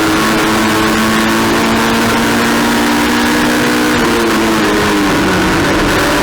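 Race car engine running hard at high revs over a constant rushing noise. Its note holds fairly steady, then drops a little near the end.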